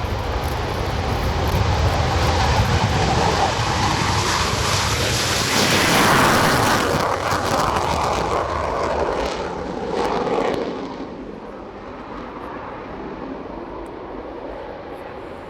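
Panavia Tornado's twin RB199 turbofan jet engines at high power on takeoff, a loud rushing roar that swells to its loudest about six seconds in, then drops away after about eleven seconds as the jet moves off.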